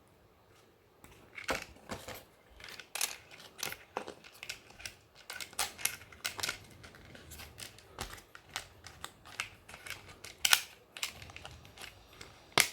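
Handling clicks, taps and light rustling from a small foam RC plane and its 1S LiPo battery as the battery is fitted and connected. A sharper click comes near the end.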